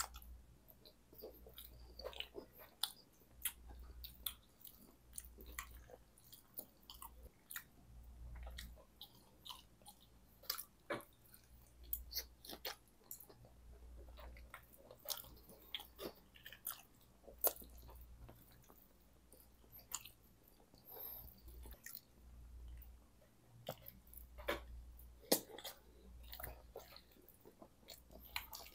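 Close-miked chewing and biting of curly fries smothered in cheese sauce, full of short wet mouth smacks and clicks that come irregularly.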